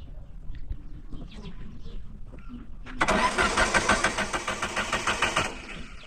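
A motor-driven machine runs in one loud burst of about two and a half seconds, with a fast, even pulse, starting and stopping abruptly about halfway through.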